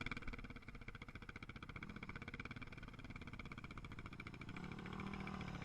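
Motorcycle engine running with a fast, even pulsing beat, growing a little louder near the end.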